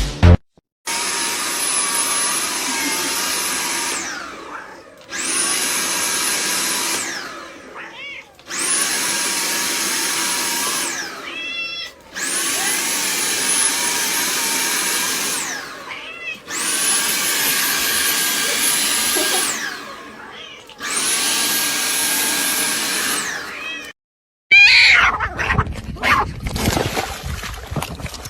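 An electric appliance motor, such as a vacuum cleaner, switched on six times in a row. Each run lasts about three to four seconds, then cuts off and winds down. A cat meows briefly as several of the runs end. Near the end a different, louder rough noise begins.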